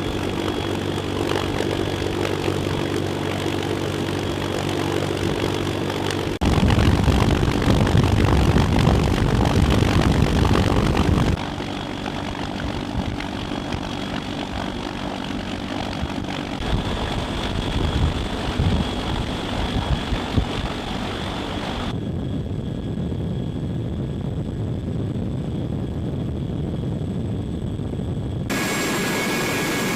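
Military aircraft engine noise in a series of abruptly cut segments. The first few seconds are a steady hum with held tones. It turns louder and rougher from about six to eleven seconds in, then settles to a steadier, quieter run.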